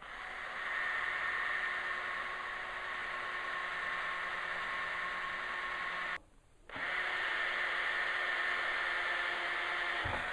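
Electric drill boring screw holes: it runs steadily for about six seconds, stops briefly, then runs again for about three and a half seconds.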